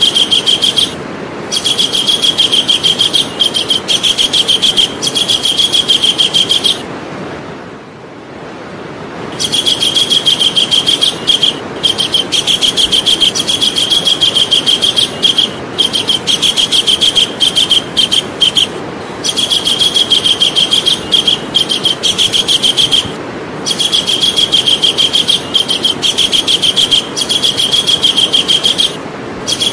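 Javan kingfisher calling: long runs of rapid, shrill repeated notes, broken by short pauses and by one longer pause about seven seconds in.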